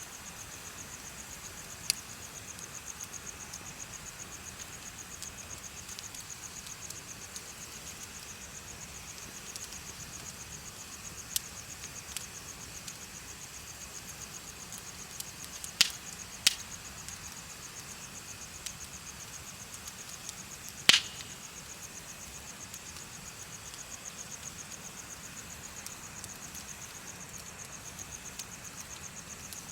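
Crickets chirping in a steady, fast-pulsing high trill, with a bonfire giving a few sharp pops and snaps, two loud ones about halfway through and another a few seconds later.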